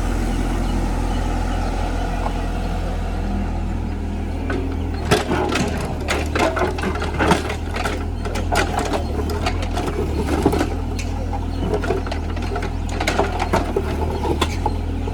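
Mini JCB digger's diesel engine running steadily under work. From about five seconds in, repeated sharp knocks and clatter are heard as the machine digs.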